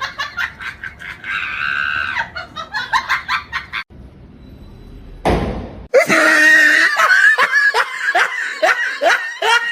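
People laughing and shrieking, with a short loud rushing noise about five seconds in, then louder, sustained laughing and screaming.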